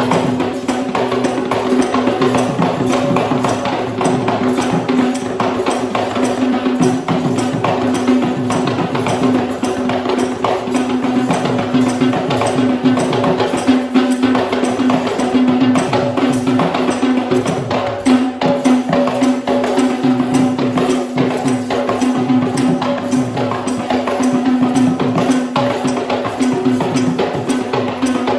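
Traditional Sri Lankan drumming for the Kandyan dance: fast, dense hand-drum strokes with jingling percussion over a steady held tone.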